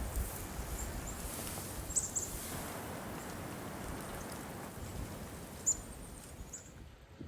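Redpolls giving short, high chirping calls a few times over a steady outdoor hiss.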